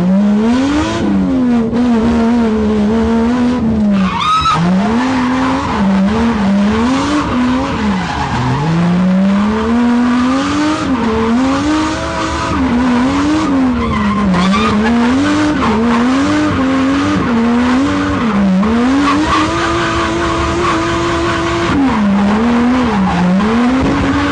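Race car's engine heard from inside the cabin, revving up and down again and again, held at high revs for a few seconds near the end, while the tyres squeal and skid.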